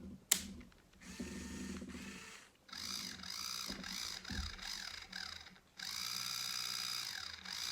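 Electric motor of a remote-controlled Lego Technic 6x6 tow truck running through its plastic gears with a ratcheting, clicking rattle. It runs in three spells of a few seconds each, with a whine that rises and falls, after a sharp click about a third of a second in.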